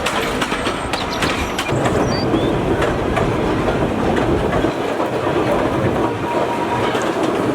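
Narrow-gauge forest railway train running along the track, its wheels clattering over the rails with many short clicks over a steady rumble.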